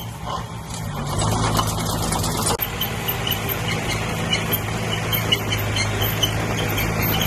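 Diesel engine of heavy earthmoving machinery running steadily, its pitch shifting slightly about a second in, with faint short high squeaks over it.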